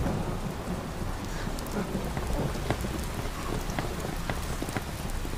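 Heavy rain pouring down on pavement: a steady hiss dotted with sharp drop splashes, over a low rumble.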